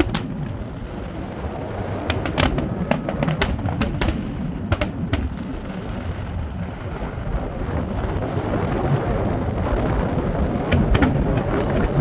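Fireworks display: a continuous low rumble of booms with many sharp crackling pops, thickest in the first five seconds and again near the end.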